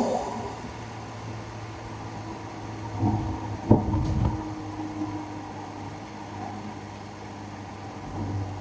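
Tuned Infiniti Q60's twin-turbo V6 running low and steady off throttle, a constant hum. About four seconds in there is a brief swell and a sharp click.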